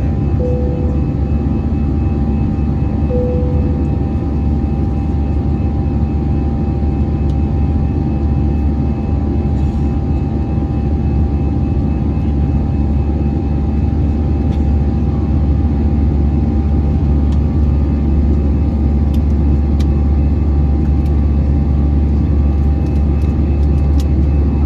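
Steady cabin noise of an Airbus A320 climbing after takeoff: a loud, even jet-engine and airflow rumble, growing a little louder after the middle. Near the start, two short chime-like tones sound a few seconds apart.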